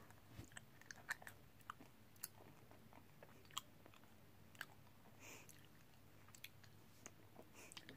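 Faint chewing of a Sour Skittles sweet: soft, irregular clicks from the mouth.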